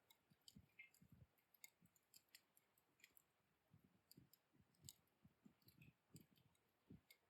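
Faint, sparse crackling of a wood fire burned down to embers: irregular sharp ticks and pops, a few a second, with occasional soft low thumps.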